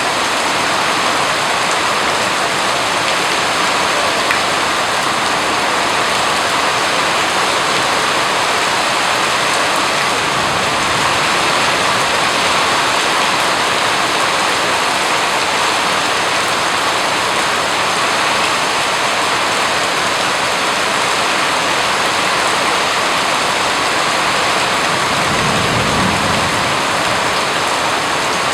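Steady rain falling, an even, unbroken hiss of drops with a brief low rumble near the end.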